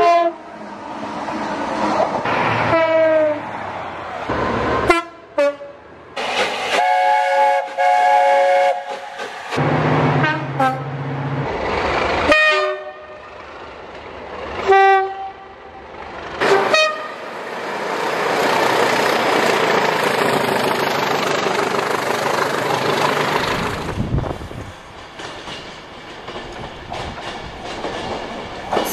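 Short clips of trains at stations, one after another: locomotive horns sound several times, with one longer chord-like horn about seven seconds in, between the running of locomotives. Near the end a long steady rush of a train running past lasts several seconds.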